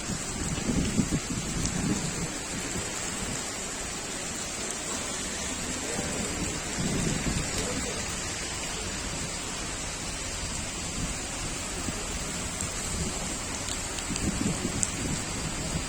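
Steady rain pattering, with a few short low rumbles about a second in, midway and near the end.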